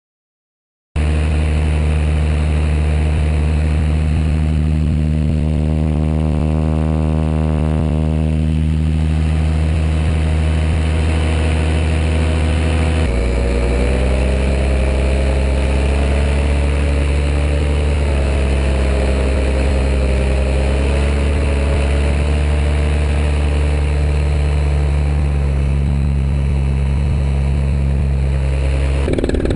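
Small aircraft motor running steadily in flight, heard close up. Its tone shifts about 13 seconds in.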